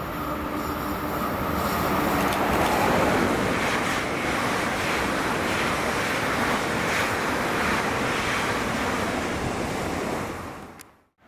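A train passing close by at speed: a steady rushing of wheels on rail and displaced air that builds over the first few seconds, holds, then drops away quickly near the end.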